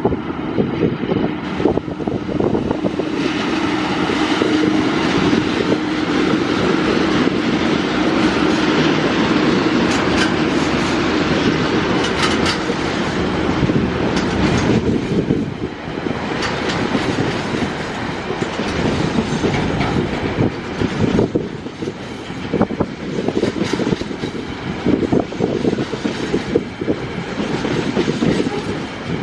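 Tasrail freight train headed by TR-class diesel locomotives passing close by. First comes a loud steady engine drone, then from about halfway through, wagon wheels clickety-clack over the rail joints with repeated sharp knocks.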